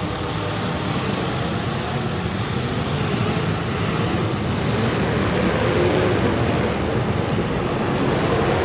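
Several demolition derby cars' engines running at once in a steady, dense din.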